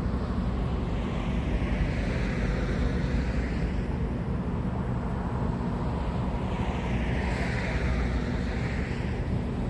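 Road traffic: a steady low rumble with vehicles swelling past and fading away twice.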